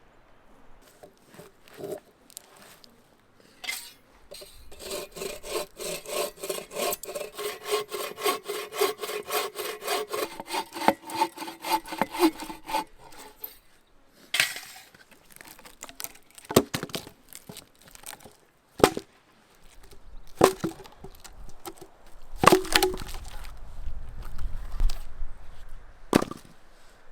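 Hand saw cutting through wood in quick back-and-forth strokes, about three a second, for some eight seconds. After it come half a dozen separate sharp cracks of wood.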